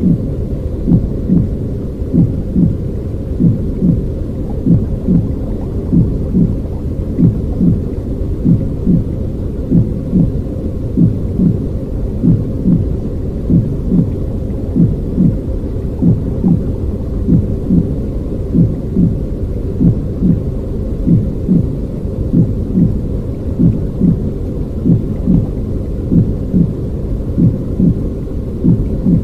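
Baby-soothing noise track: a deep, muffled rumbling noise with soft pulses about one and a half times a second.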